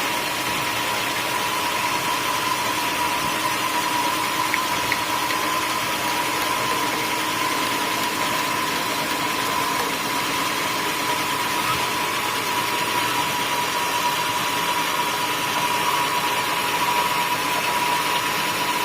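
Sawmill running steadily as it saws a teak stump: a constant high whine over a steady rushing noise.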